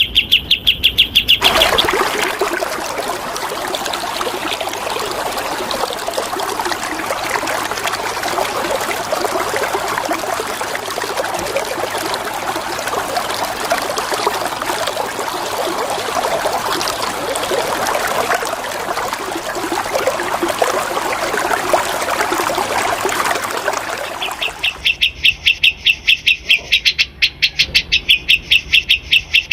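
Running water flows steadily for most of the stretch, framed by songbird song: a rapid string of repeated high notes briefly at the start, and again from about 25 seconds in.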